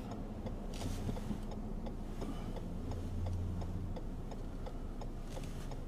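Car turn-signal indicator ticking evenly over the steady low hum of the engine and road noise inside the cabin.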